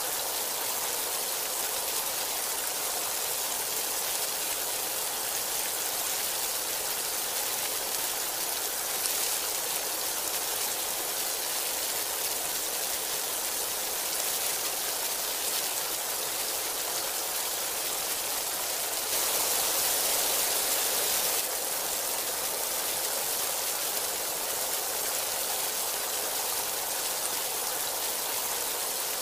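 Heavy rain falling steadily as an even hiss, swelling louder for a couple of seconds about two-thirds of the way through.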